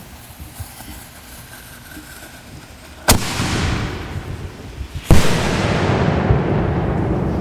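Aerial noise shell fired from a mortar tube: a sharp launch bang, then about two seconds later the shell breaks with a louder bang that rolls on as a long rumble.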